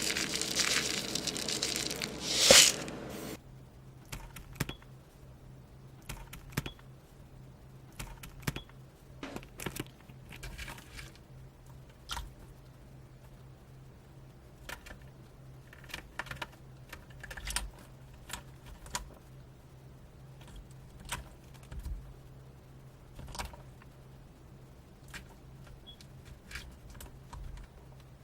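A loud crinkling rustle for about three seconds, then scattered light clicks and taps at irregular intervals, as of a small bird hopping and pecking about its cage.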